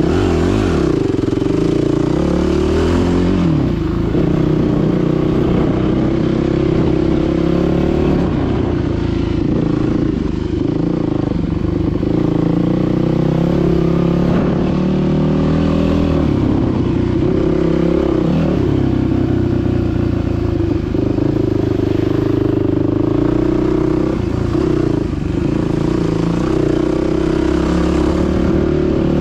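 Dirt bike engine running loudly, its pitch rising and falling repeatedly with the throttle.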